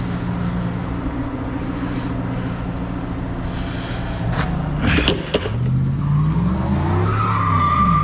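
A heavy engine idles steadily throughout. About halfway there are a few sharp clanks. Then another vehicle's engine rises and falls in pitch as it drives past.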